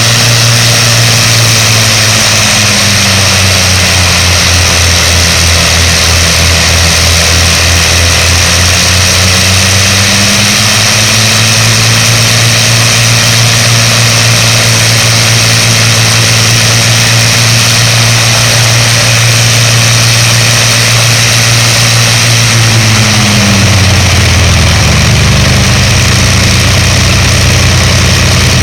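Avro Lancaster's four Merlin V12 piston engines and propellers running loud at high power on the ground. The engine note dips a few seconds in, climbs back about ten seconds in, and drops again near the end as the power changes.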